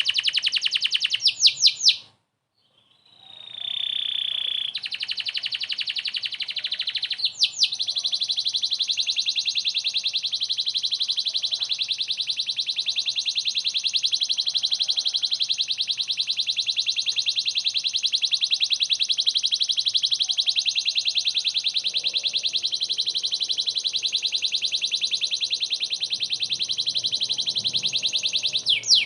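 Canary singing in long, very fast trills, with a few sweeping notes; the song stops briefly about two seconds in, then one rapid trill runs on unbroken for about twenty seconds.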